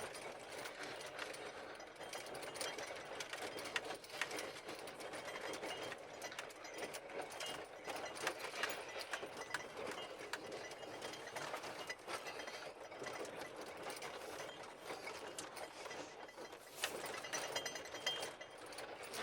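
Continuous rattling and clicking of a ride over rough ground.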